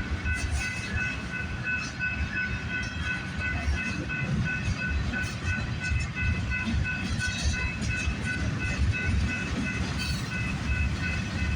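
CPKC freight train's cars rolling slowly past, a steady low rumble with uneven wheel clatter. Above it a grade-crossing warning bell rings steadily in even, rapid strokes.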